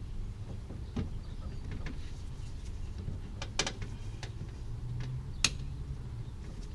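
Scattered sharp clicks and light knocks of a radiator hose being handled and fitted onto the radiator, the loudest about a second in, near the middle and near the end, over a steady low hum.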